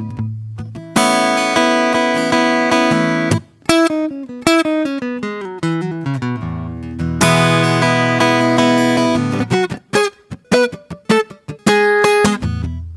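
Solo acoustic guitar played slowly and softly. A chord is strummed about a second in and another about seven seconds in, with single plucked notes stepping down in pitch between them.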